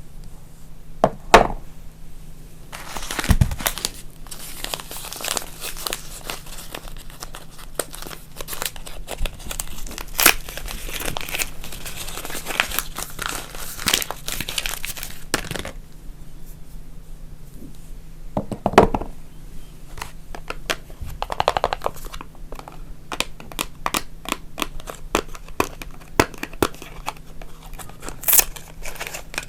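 Soap packaging crinkling and tearing as soap bars are unwrapped by hand: a long stretch of dense crackling in the first half, then scattered crinkles and a few sharper knocks of handling.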